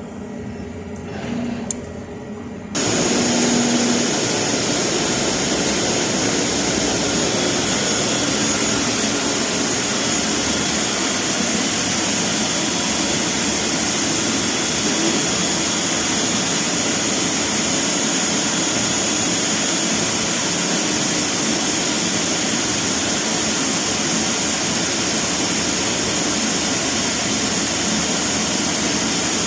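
A CNC cutting machine starts up suddenly about three seconds in and runs through a test cut, with a loud, steady hiss and a thin high whine.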